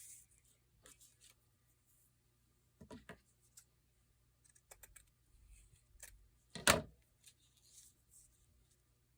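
Paper being handled and trimmed with scissors: scattered small clicks, snips and rustles, with one louder knock about two-thirds of the way through.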